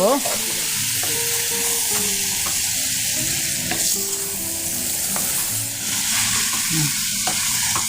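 Beef innards and tomato sizzling in a hot pan as they are stirred, a steady frying hiss with a few short clicks of the spatula against the pan.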